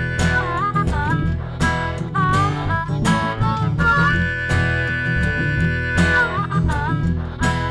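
Acoustic blues band playing an instrumental break: strummed acoustic guitar over a low steady rhythm, with a lead line of long held high notes that bend down and back up.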